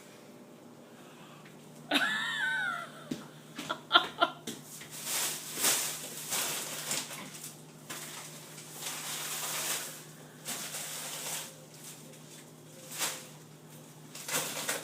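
A short wavering vocal cry about two seconds in. Then repeated rustling and scraping as spoiled food is handled and cleared out of a refrigerator, over a faint steady hum.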